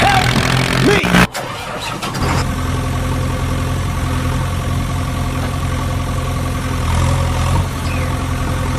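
Tractor engine running steadily at a low, even idle. It cuts in about two seconds in, after a sudden break.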